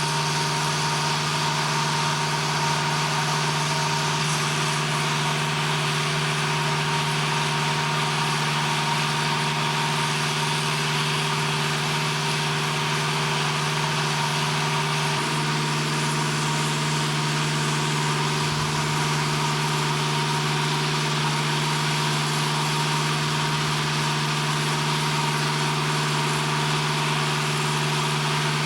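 Steady machinery drone, engine-like, with an even hum and hiss and no breaks; its tone shifts slightly about fifteen seconds in.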